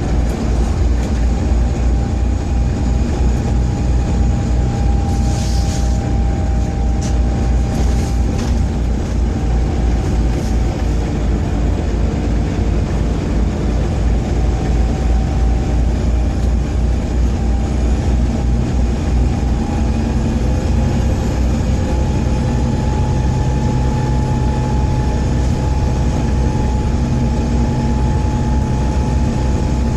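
Volvo B7TL bus's diesel engine running while the bus is under way: a loud, fast-pulsing low rumble whose pitch shifts with engine speed. The pulsing is the bad engine vibration, and a few sharp rattles come about five to eight seconds in.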